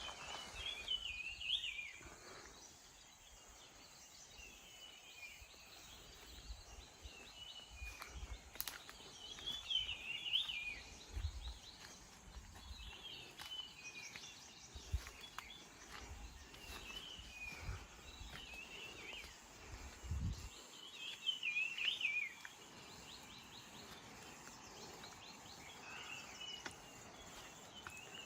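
A songbird sings short, warbling phrases every few seconds over a faint outdoor background. Low thumps come and go until about two-thirds of the way through.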